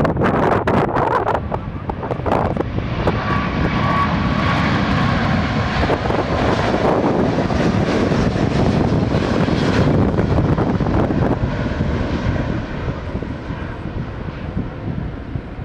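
Airliner passing close by, its engine noise loud and steady for most of the time, then fading away over the last few seconds. Wind buffets the microphone at the start.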